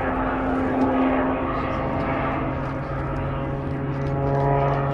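Propeller aircraft engine droning steadily, with broad wind and water noise; its higher tones rise slightly near the end.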